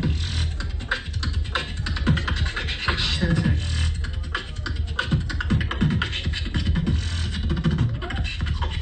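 Solo beatbox routine: a steady deep bass tone held under fast, rhythmic mouth percussion of kicks, snares and clicks.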